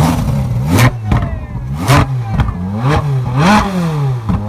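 Car engine revved repeatedly from idle in quick blips, about four in a row, each climbing and then falling back, with sharp cracks near the top of the revs.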